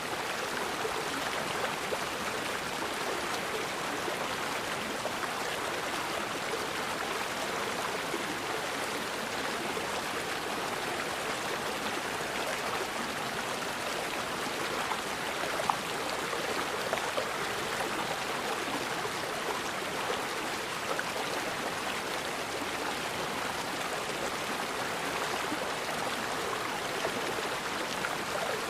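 River water flowing steadily over rocks, an even rushing and gurgling, with a couple of brief sharper splashes about halfway through.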